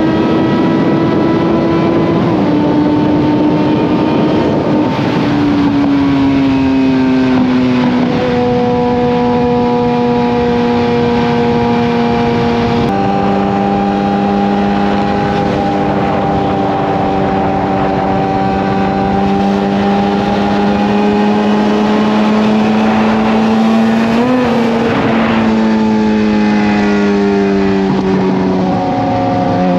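Suzuki GSX-R750 inline-four engine running at highway speed through an M4 slip-on exhaust, with wind noise on the microphone. The engine note drops in steps a few times, once sharply about 13 seconds in as an upshift would, gives a short blip about 24 seconds in, then sags before picking up again at the very end.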